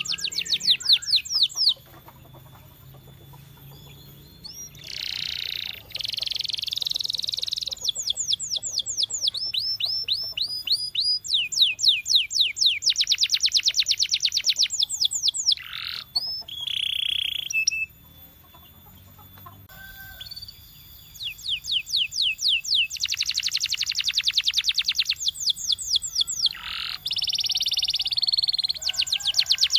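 Domestic canary singing: a string of fast trills, each a rapid run of repeated high notes, switching to a new phrase every second or two, with a few buzzy rolling notes mixed in. The song breaks off briefly twice, a couple of seconds in and again past the middle.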